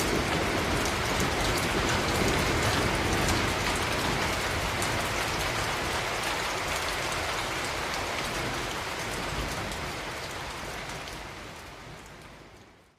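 Steady rain falling on a surface, many individual drops pattering, fading out over the last few seconds.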